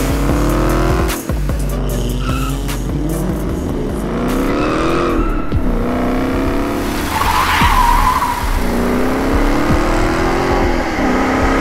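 Car engine accelerating hard through the gears, its pitch climbing and then dropping at each shift several times over, with a tyre squeal about seven and a half seconds in.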